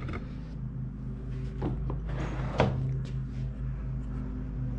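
A few light clicks and one sharper tap about two and a half seconds in, over a steady low hum.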